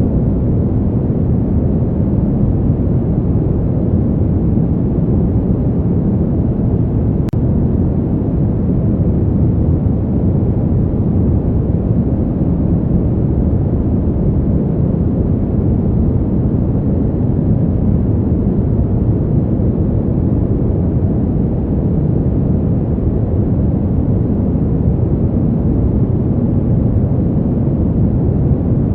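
Steady, deep rush of winter wind noise, heaviest in the bass with little treble, holding an even level without gusts.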